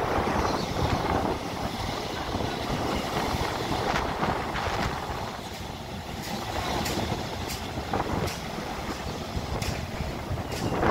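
Metro train running past, a steady rumble with a series of sharp wheel clicks over rail joints in the second half.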